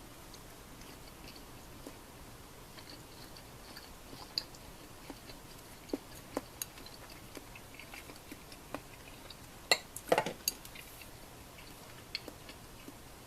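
Tableware being handled during a meal: scattered light clicks, then a cluster of louder knocks of utensils against a dish or pot a little past the middle.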